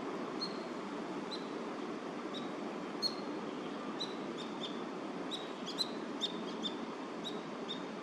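A small bird chirping repeatedly, about fifteen short, sharp, high notes that come faster in the second half, over a steady low background rumble.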